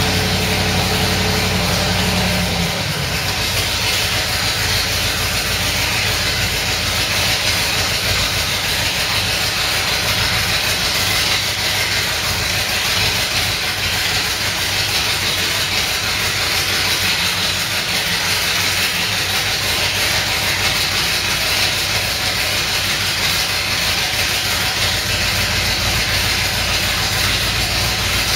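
Hurricane Cobra's aluminum-block 482 side-oiler V8 with Weber carburetors running at idle on its first-ever start. A steady hum drops away about three seconds in, leaving an uneven low rumble over a steady hiss.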